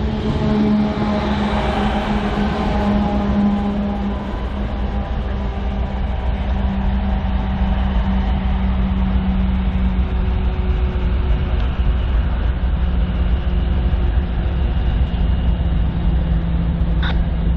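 BNSF freight train going by: a steady, loud low rumble of rolling cars with a diesel locomotive's engine hum that fades after about ten seconds, and a single sharp click near the end.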